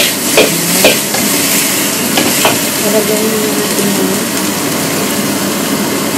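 Food sizzling in a wok over a gas flame, a steady hiss, with three sharp metal clinks in the first second.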